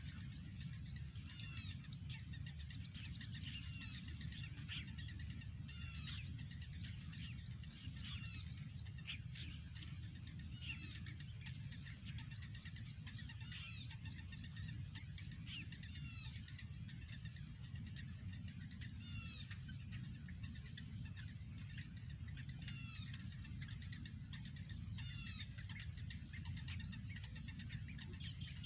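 Small birds chirping: short, high chirps repeated every second or so, over a steady low rumble and a faint steady high whine.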